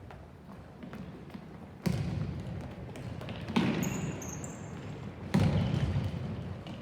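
Three sudden heavy thuds about a second and a half apart, each fading out slowly over a second or more.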